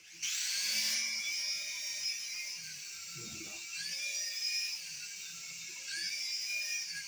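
Tiny electric motor and rotors of a hand-sensing mini toy helicopter spinning up suddenly and running with a high-pitched whine. The pitch dips and recovers every couple of seconds as the toy hovers.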